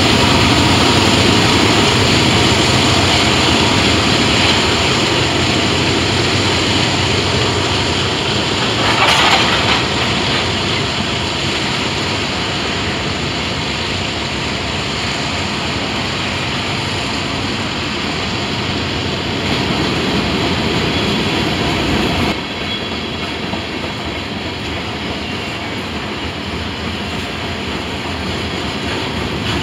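Freight cars of a long, heavy Norfolk Southern train rolling past, with the steady rumble and clickety-clack of steel wheels on the rails. A brief louder burst of noise comes about nine seconds in, and the sound drops suddenly a little quieter about two-thirds of the way through.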